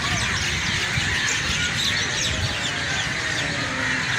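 A flock of birds chirping and squawking together: a dense, continuous chatter of many short, quick calls.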